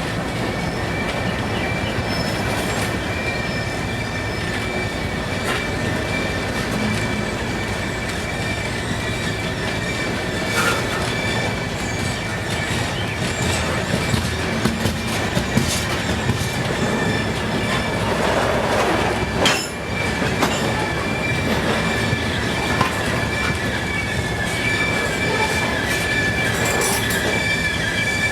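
Freight train cars rolling past, their wheels giving a steady, high-pitched squeal over a constant rumble. Scattered clicks and knocks come from the wheels, with one sharp knock about two-thirds of the way through.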